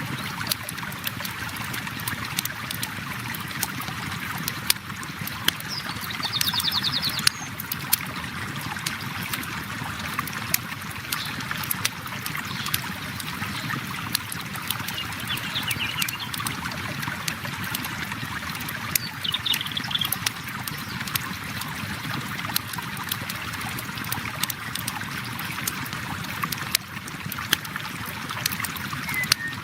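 River water flowing steadily, with a campfire crackling and popping in sharp, irregular clicks over it.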